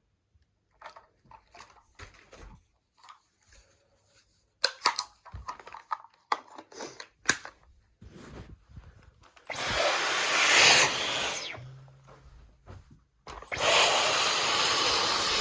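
Scattered light clicks and knocks of things being handled, then a Dyson V15 Detect cordless stick vacuum switched on about halfway through: it runs for a couple of seconds, winds down, and starts again shortly before the end, running steadily.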